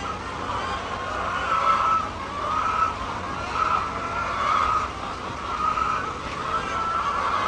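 A flock of chickens calling: overlapping drawn-out, wavering calls about once a second.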